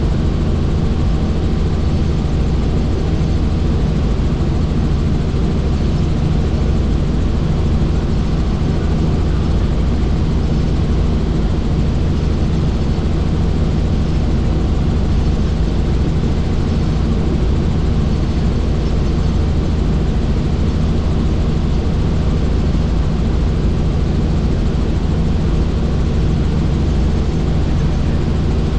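Helicopter in flight: a steady, unchanging drone of engine and rotor, with a low hum of steady tones beneath a rushing noise.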